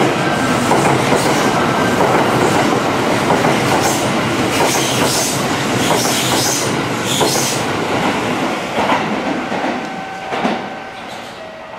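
Kintetsu limited express electric train running through a station at speed, a loud continuous rush of wheel and rail noise that eases off near the end.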